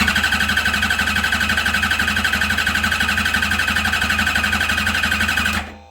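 Turbocharged Suzuki GSX-R 1000 four-cylinder engine cranking over on its electric starter with a fast, even pulsing, without firing, then stopping abruptly near the end. It is being spun for an onboard cranking-voltage compression test, which compares the voltage drop of each cylinder's compression stroke.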